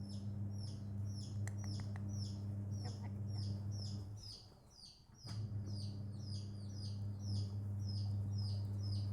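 A bird chirping over and over, short high chirps about three a second, over a steady low electrical hum that stops for about a second midway.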